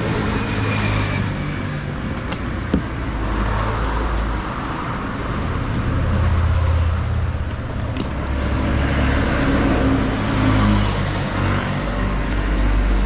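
Motor vehicle engines running, with road traffic noise; the engine hum shifts in pitch now and then, and a couple of brief clicks are heard.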